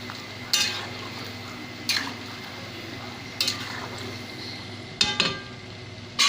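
Batter-coated chicken pieces deep-frying in hot oil in a kadai with a steady sizzle, and a metal ladle knocking against the pan about six times as the pieces are stirred and turned.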